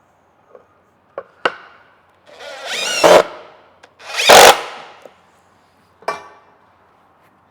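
Power drill driving screws into wood in two bursts of about a second each, its pitch wavering as the trigger is worked, with a few sharp knocks of wood and tool being handled before and after.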